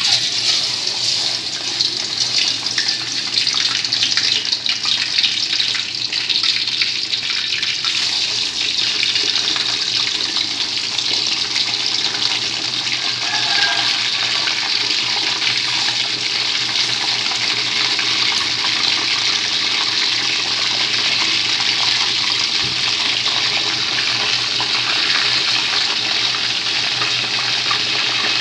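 Chicken wings frying in very hot fat in a wok. A loud sizzle starts suddenly as they go in, crackles heavily for the first several seconds, then settles into a steady sizzle.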